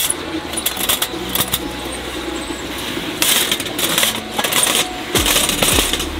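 Irregular sharp clicks and light clinks, like small hard objects knocked together while being handled, over a steady hiss, with two louder rustling stretches about three and five seconds in.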